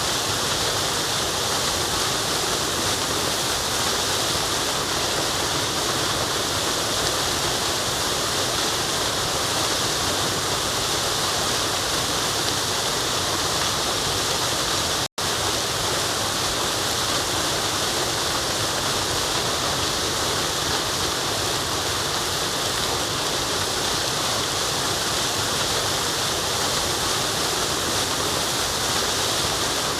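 Waterfall: a steady, unbroken rush of falling water, strongest in the hiss. It cuts out for an instant about halfway through.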